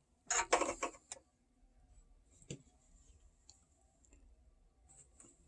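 Hard plastic toy parts handled: a short run of scraping and rubbing in the first second, then one sharp click about two and a half seconds in and a few faint ticks.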